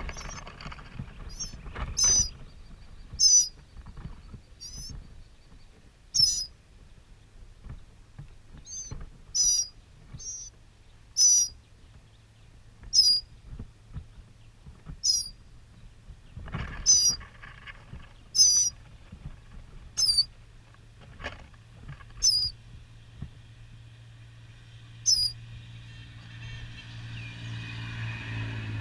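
Northern mockingbird giving short, high chirps, one every second or two, with a low hum growing louder near the end.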